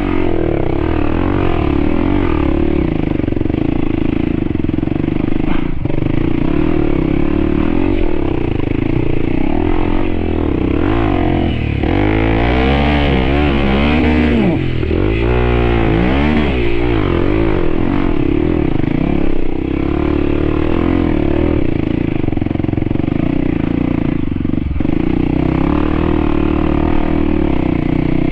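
Trail motorcycle engine running continuously, the pitch swinging up and down with the throttle in a burst of revving midway through.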